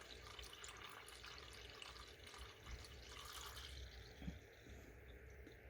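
Faint trickle of engine coolant being poured back through a funnel into the coolant reservoir, easing off after a few seconds, with one light knock near the end.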